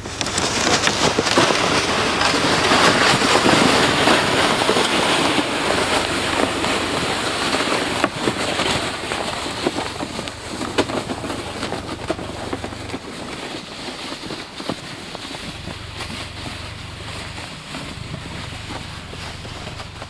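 Strong wind blowing in gusts, a rushing noise that is loudest a few seconds in and then gradually eases.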